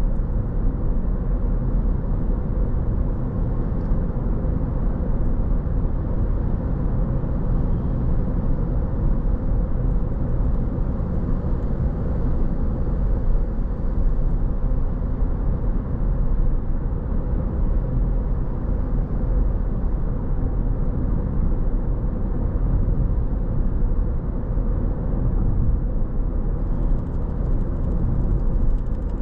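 Steady low rumble of a car driving along a road: tyre and engine noise at an even level.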